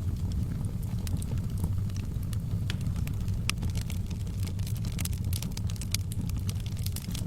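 Wood fire burning in a fireplace: a steady low rumble of the flames with frequent small sharp crackles and pops from the burning logs.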